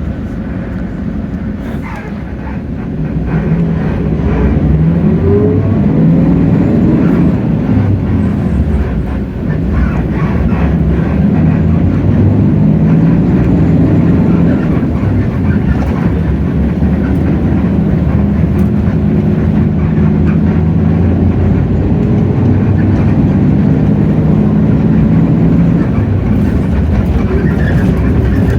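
Hino J08E-VN 7.7-litre diesel engine of a city bus running under load, with road and cabin noise. It grows louder about three seconds in, dips briefly near a third of the way through, then runs on steadily, its pitch wavering.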